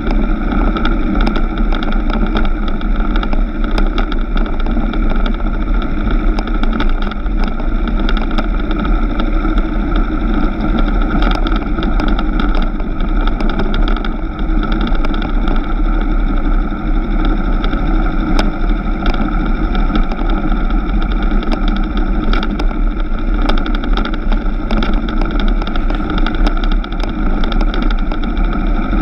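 Suzuki Inazuma GW250's parallel-twin engine running steadily at cruising speed on a dirt road, with small clicks scattered throughout.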